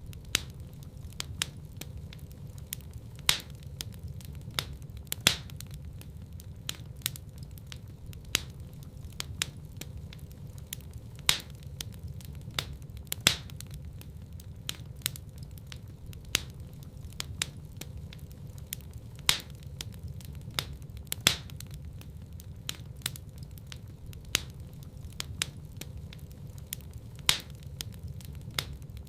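Wood fire crackling in a fireplace: sharp pops and snaps scattered over a steady low rumble of the burning fire. The loudest pops come in pairs about two seconds apart, recurring every eight seconds.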